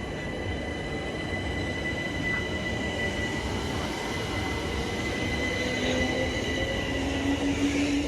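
Train running on the line, a steady rumble with high, even tones over it, growing a little louder toward the end.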